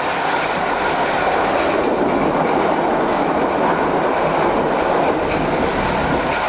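Passenger train running along the track with a steady rolling rumble, its wheels clicking faintly over the rail joints.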